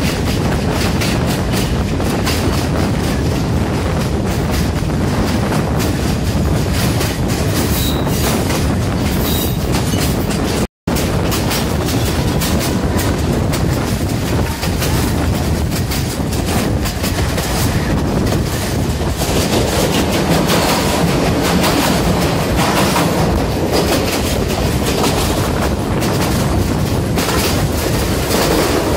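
Train carriage running along the track, heard from inside at an open window: a steady rumble with the clickety-clack of the wheels over the rails. The sound drops out for a split second about eleven seconds in.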